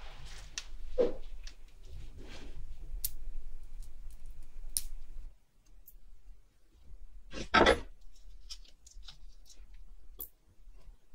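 Small hand tools working on a watch: scattered light clicks and ticks, with a few short rubbing scrapes in the first half and one louder brief scrape about seven and a half seconds in.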